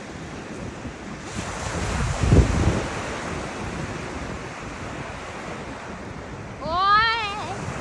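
Ocean surf washing on a beach with wind buffeting the microphone; a wave surges loudest about two seconds in. Near the end a brief high, wavering call rises above the surf.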